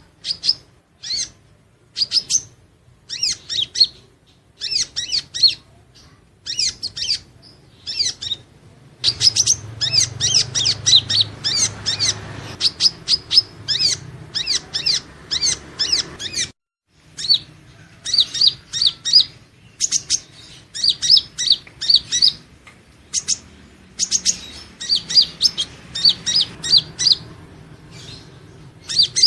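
Purple-throated sunbird (Leptocoma sperata) calling: rapid runs of short, high, thin chirps in quick clusters separated by brief pauses, over a low background hum. The sound cuts out completely for a moment a little past halfway, then the chirping resumes.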